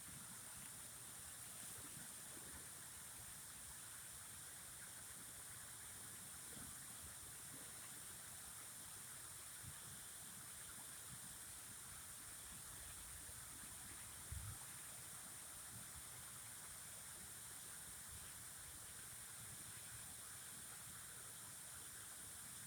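Faint, steady rush of running water, with a brief low bump about fourteen seconds in.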